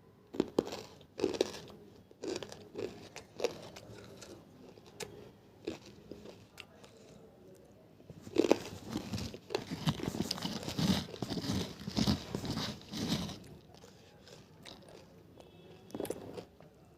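Hard, brittle pieces of banslochan (tabashir, bamboo silica) being bitten and chewed in the mouth. There are sharp crunches in the first couple of seconds, then scattered bites, a dense run of crunching from about eight to thirteen seconds in, and one last crunch near the end.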